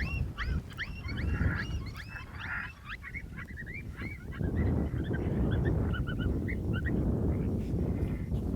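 Coyote yipping: many quick rising yips packed close together, thinning after about three seconds into softer, scattered yips. Wind rumble on the microphone underneath grows louder about halfway through.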